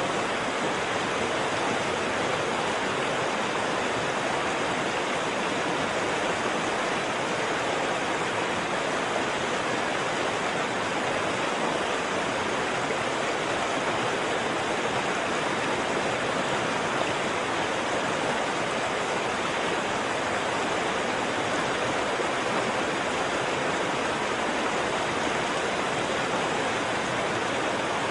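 Waterfall: water falling and rushing in a steady, unchanging roar.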